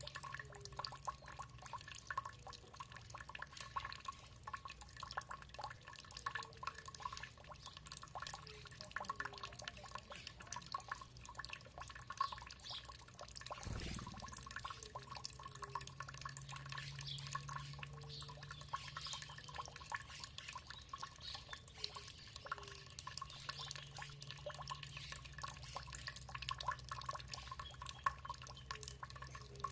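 Water dripping and trickling, with many small ticks and short plops of drops falling into water, over a steady low hum. There is a single louder knock about halfway through.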